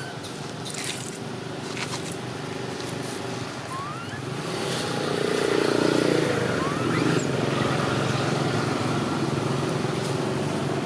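Steady motor hum, like a passing vehicle, growing louder about halfway through and then holding, with a few short high rising squeaks.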